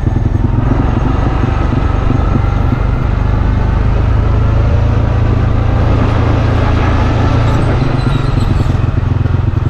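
CFMoto CForce 400 ATV engine running steadily.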